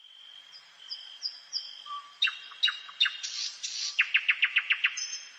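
Nightingale singing: a varied phrase of short repeated whistles, sharp clicking notes and a rasping buzz, then a fast rattle of about eight rapid notes near the end, over a faint steady high whistle.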